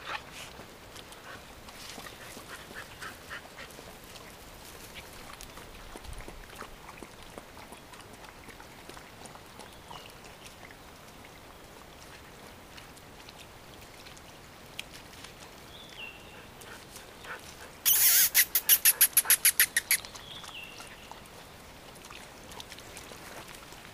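Quiet outdoor background with faint rustling; about three-quarters of the way through, a bird gives a loud, rapid chattering call, about ten notes a second for two seconds, with a couple of faint short falling chirps around it.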